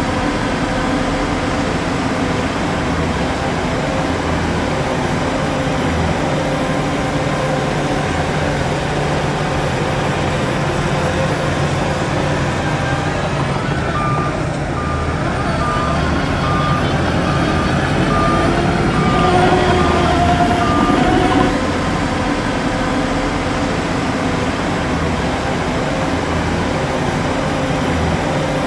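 Heavy diesel engines of earthmoving machinery running steadily. About halfway through, a reversing alarm beeps about once every 0.7 s for around seven seconds, and an engine briefly revs up under load near the end of the beeping.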